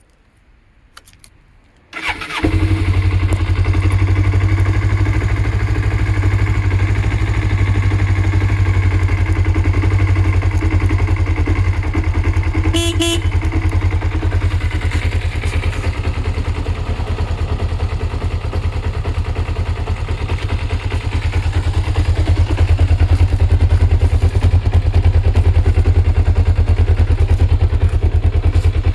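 Kawasaki ZZ-R250 parallel-twin motorcycle engine starting about two seconds in, then running steadily at idle. There is a short beep about 13 seconds in.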